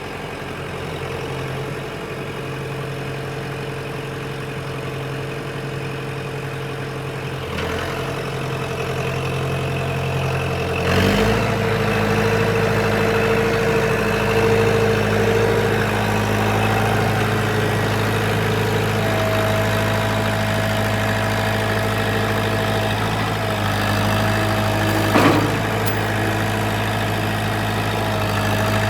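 Kubota M105S tractor's diesel engine running steadily. Its note changes and grows slightly louder about eleven seconds in. A thin steady whine joins from about two-thirds of the way through, and a short knock sounds near the end.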